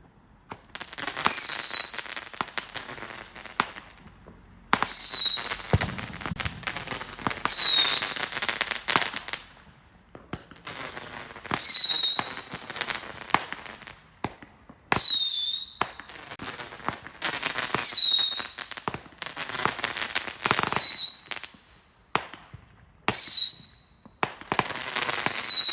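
Fireworks going off in a string of about ten loud bursts a few seconds apart. Each burst opens with a short whistle falling in pitch and trails off in crackling.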